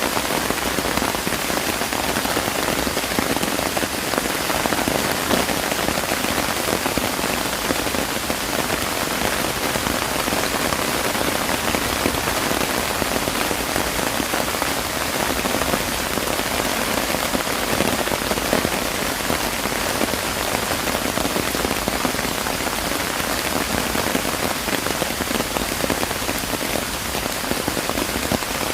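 Steady rain falling and pattering on surfaces, an even, dense hiss with fine drop impacts that holds constant throughout.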